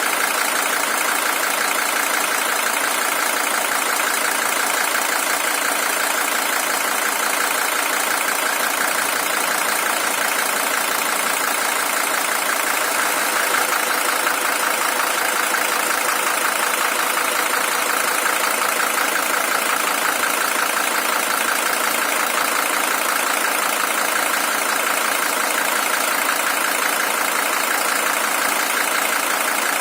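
Mercedes-Benz OM617 five-cylinder diesel engine, the original unit with 620,000 km on it, idling steadily.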